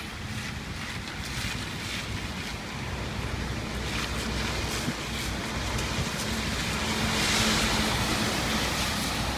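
Typhoon wind blowing in gusts with a rushing hiss that builds to its loudest about seven to eight seconds in.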